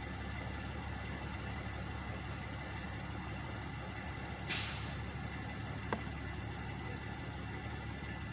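Parked trucks idling with a steady low engine hum. About halfway through there is a short burst of air hiss from a truck's air system, followed a second and a half later by a single sharp click.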